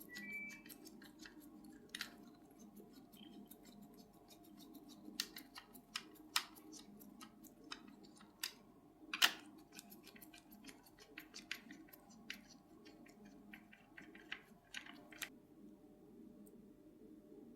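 Scattered small clicks and taps from hand tools and fingers working on a metal toy car, over a steady low hum. One click about halfway through is louder than the rest, and the clicking stops near the end.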